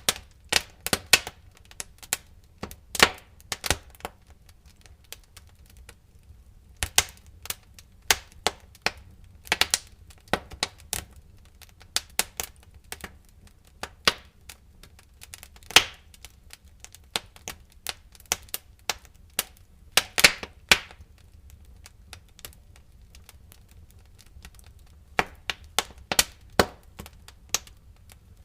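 Wood fire crackling in a fireplace: irregular sharp pops and snaps, sometimes several in quick succession, with a couple of quieter spells between them.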